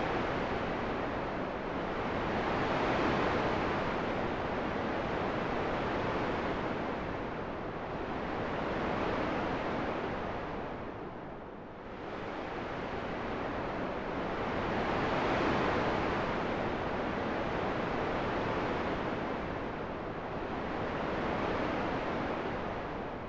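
Rushing wind noise, an even hiss with no tones, swelling and easing in slow gusts several seconds long, with one clear lull about halfway through.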